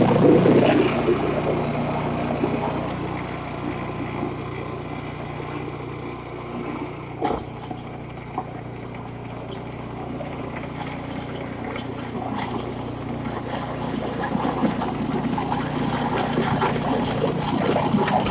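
Snowblower engine running steadily, loud at first, fading through the middle and building again toward the end, with a rushing hiss when it is loudest. A single sharp click about seven seconds in.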